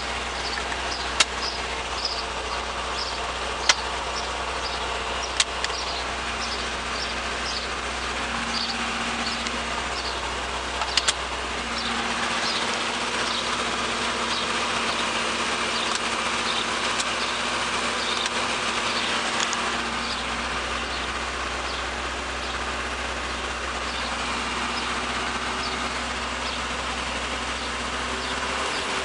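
1973 Opel GT's four-cylinder engine idling steadily. A repeated high chirp sounds about twice a second over it, and a few sharp clicks come in the first ten seconds or so.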